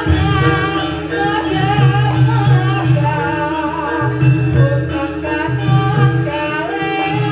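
Live music for a Javanese reog and kuda lumping troupe: a singer's wavering, ornamented melody over instrumental accompaniment, with a low part that comes and goes about once a second.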